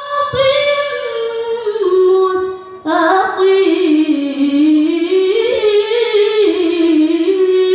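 A woman's solo voice reciting the Qur'an in melodic tilawah style, with long held notes and ornamented turns. There is a short pause for breath about three seconds in.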